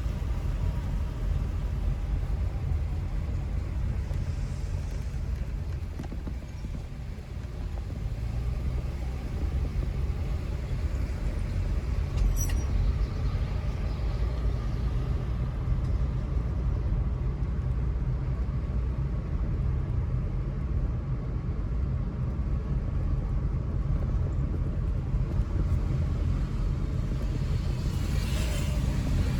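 Car driving on town streets: a steady low rumble of engine and tyres, with a brief high chirp about twelve seconds in and a louder passage near the end.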